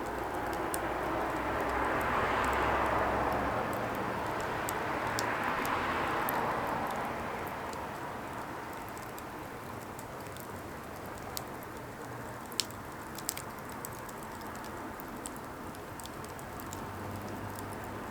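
Firewood burning: a steady rushing hiss that swells twice in the first seven seconds, with scattered sharp crackles and pops, a few louder ones around twelve to fourteen seconds in.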